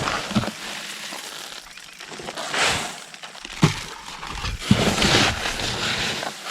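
Stone work: irregular crunching and scraping of rock, with one sharp knock a little past halfway.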